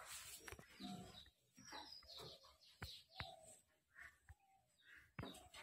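Pet parrot making a few faint, short chirps, with some small sharp clicks scattered between them.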